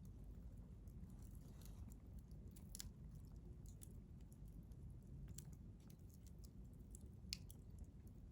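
Wood fire crackling faintly: scattered sharp pops and ticks of burning wood, a few seconds apart, over a low steady rumble.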